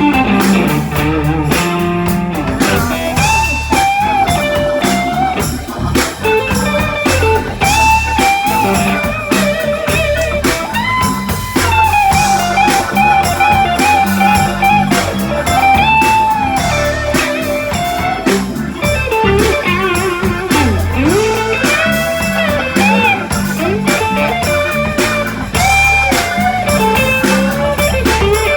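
Live blues-rock band in an instrumental break: a lead electric guitar plays a solo with string bends and vibrato, over bass and drums.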